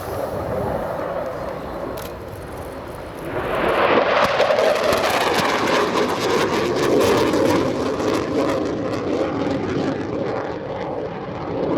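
Panavia Tornado A-200 making a fast flypast, its twin RB199 turbofan engines giving a crackling jet roar that swells sharply about three seconds in, stays loud for several seconds, then slowly fades.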